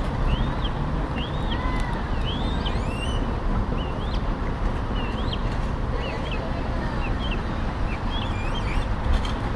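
Birds chirping over and over in short rising-and-falling calls, over a steady low outdoor rumble.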